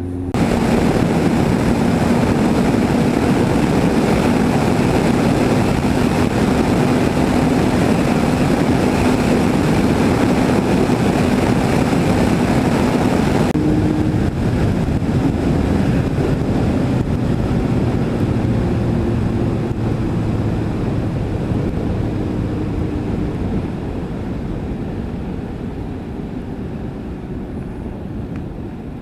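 Yamaha FZS1000 Fazer's inline-four engine running under way, heavily masked by wind rush on the microphone. The wind hiss drops suddenly about halfway through, and the whole sound slowly fades over the last few seconds as the bike slows.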